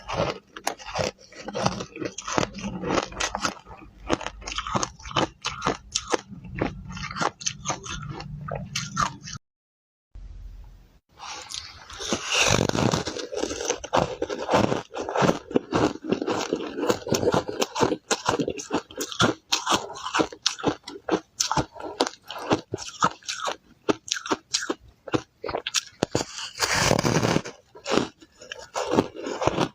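Ice being bitten and chewed close to the microphone, a rapid run of sharp crunches and crackles as it breaks between the teeth. There is a brief dead silence about a third of the way in before the crunching resumes.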